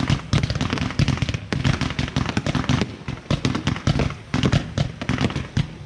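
Consumer fireworks batteries firing in a dense, continuous barrage of bangs and crackling reports during a fireworks finale.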